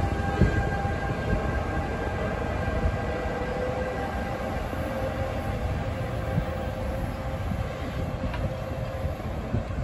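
Passenger train running past close by: a steady, loud rumble of wheels on rail with a steady whine held over it.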